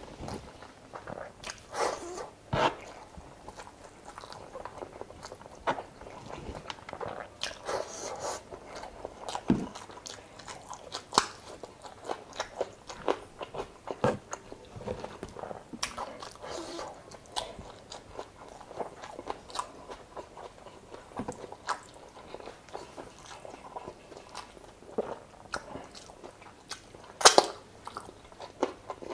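Close-miked eating sounds: a person chewing and biting chicken adobo and rice, with irregular short sharp mouth clicks, the loudest near the end.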